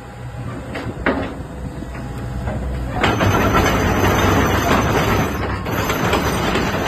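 Hitachi ZX120 excavator's Isuzu 4HK1 four-cylinder diesel engine running, with two short knocks about a second in. About three seconds in the sound grows much louder and rougher as the machine works.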